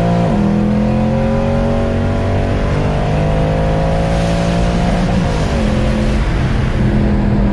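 Mercedes-AMG Black Series engine pulling hard, its pitch climbing slowly, dipping briefly twice about five and six seconds in as at gear changes, then holding steady.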